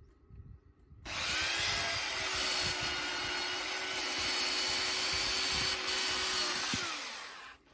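Electric power saw starting about a second in and running steadily for about six seconds while cutting oak logs into firewood lengths, then dropping in pitch and winding down near the end.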